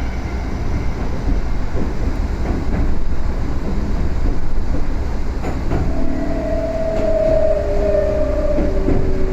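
Onboard running sound in a Yoro Railway 7700 series (ex-Tokyu 7700) motor car: a steady rumble of wheels on rail with some clatter. About six seconds in, the traction motor and inverter whine sets in and falls slowly in pitch as the train slows.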